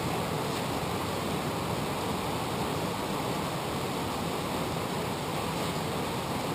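Heavy rain pouring down, a steady even hiss that does not let up.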